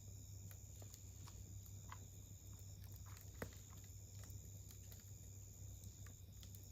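Wood campfire crackling faintly, with scattered sharp pops and one stronger pop about halfway through.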